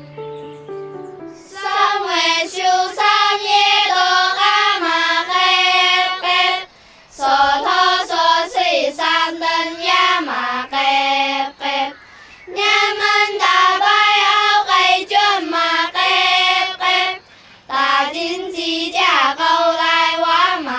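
A Dong girls' choir singing a Dong Grand Song, several children's voices in harmony. The singing begins about a second and a half in and goes in phrases with short breaks between them.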